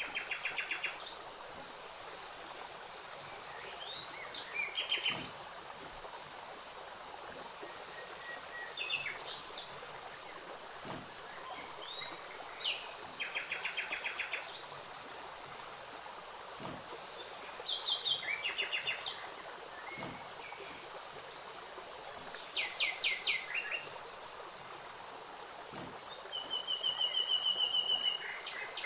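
Songbirds chirping and giving short rattling trills every few seconds over a steady hiss, with a longer trill near the end.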